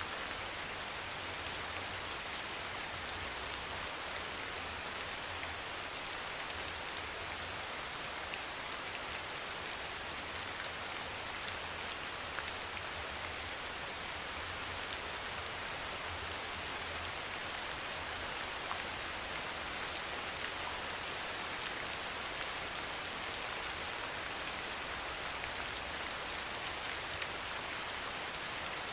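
Steady soft rain falling, an even hiss with a few scattered sharp drop ticks.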